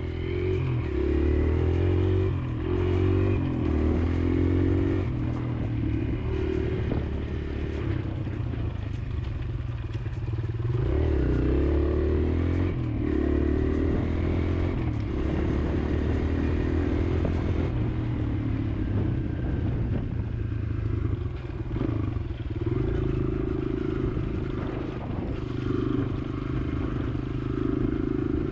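Kawasaki KLX140L's single-cylinder four-stroke engine revving up and down as the bike is ridden, the pitch rising and falling over and over with the throttle.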